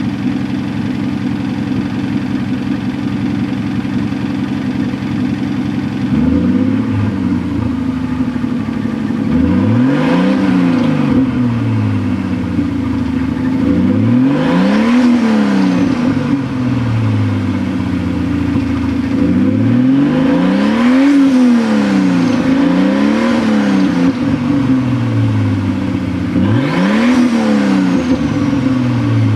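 1987 Toyota Supra's turbocharged 7M-GTE inline-six idling steadily, then revved about six times from about six seconds in, each rev climbing in pitch and falling back to idle.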